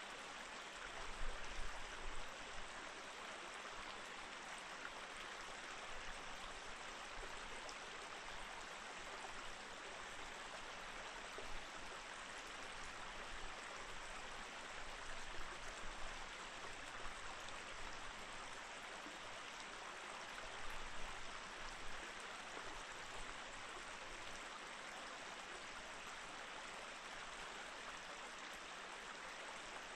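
Mountain stream running over rocks: a steady rush of flowing water. There are a few brief low rumbles, the strongest about a second in.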